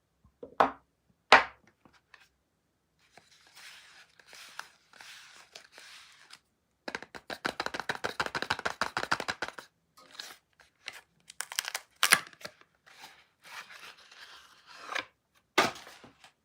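Soap packaging being unwrapped by hand: wrappers crinkle and tear. There are sharp snaps in the first couple of seconds, a dense run of rapid crackling tearing in the middle, and more snaps near the end.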